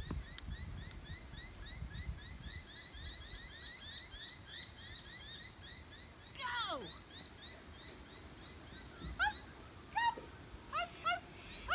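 Birds calling: a fast run of short repeated chirps for the first few seconds, then a long call falling steeply in pitch, and several short arched calls near the end.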